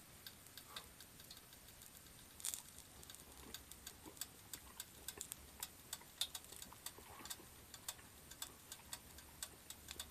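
Faint, irregular crackle and small pops of nori-topped chicken karaage patties frying on an electric hot plate, with a couple of sharper pops about two and a half and six seconds in.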